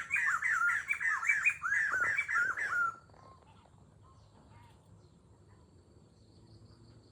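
A bird calling loudly in a quick series of repeated rising-and-falling notes, about three or four a second. The calls stop abruptly about three seconds in, leaving only faint distant chirps and insects.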